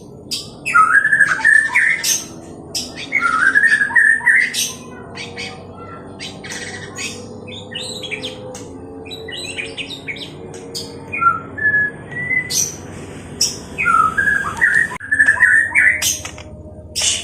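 White-rumped shama singing in its aggressive fighting-style song: loud bursts of rapid rising whistled notes mixed with sharp harsh clicks. The middle is a quieter stretch of scattered notes, and the loud bursts return near the end.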